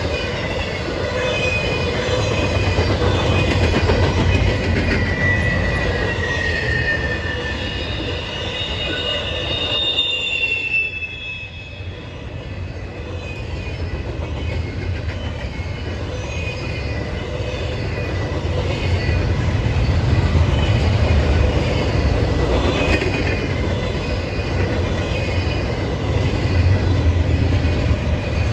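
A train rolling past with a steady low rumble of wheels on rails. High-pitched wheel squeal comes in drawn-out gliding tones between about 4 and 11 seconds in, then the sound dips briefly before the rumble builds again.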